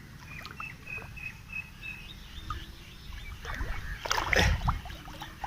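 Water splashing and sloshing as a person wades through a deep rock pool, loudest about four seconds in. A bird repeats a short high note about six times in the first two seconds.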